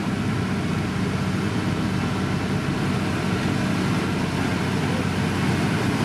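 Diesel engine of heavy road-construction machinery, a motor grader or road roller, running steadily under load.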